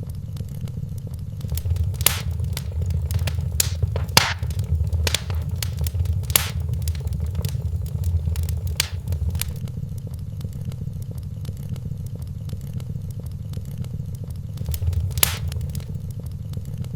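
Wood fire crackling in a fireplace: a steady low rumble with scattered sharp pops and snaps, busiest a couple of seconds in and with one loud pop near the end.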